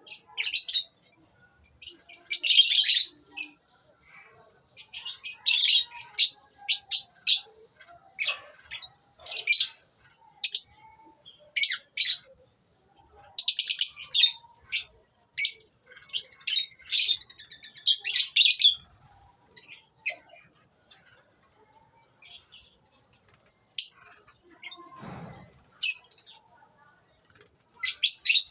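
A colony of lovebirds calling: many shrill, high-pitched chirps and squawks in irregular clusters, some overlapping.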